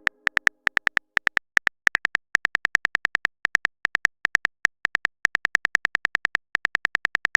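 Texting-app keyboard typing sound effect: short, crisp clicks, about six a second in uneven runs, as a message is typed out.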